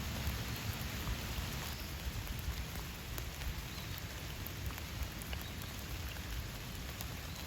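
Steady rain falling on surfaces, a constant hiss with scattered drop ticks over a low rumble.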